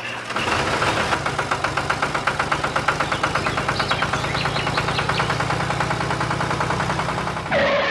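Engine idling with an even chugging beat, about eight beats a second, in the manner of a small tractor engine.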